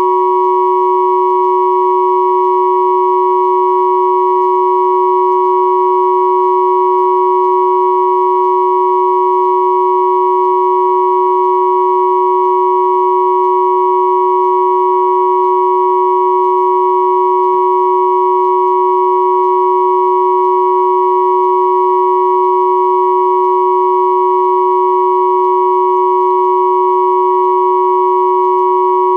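Pure sine tones at 369, 963 and 1111 Hz sounding together as one steady, unchanging chord, with fainter higher tones above them.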